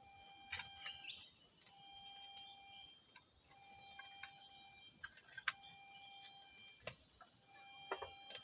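Forest night-time ambience: a steady high insect drone, with repeated one-pitch calls each held about a second, and scattered sharp clicks.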